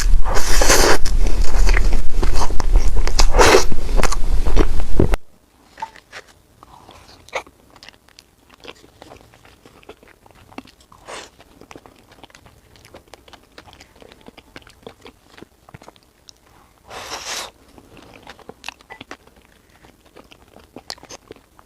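Loud rushing, rumbling noise that cuts off abruptly about five seconds in. It gives way to close-miked eating: quiet bites, crunches and chewing clicks, with a brief hiss near the end.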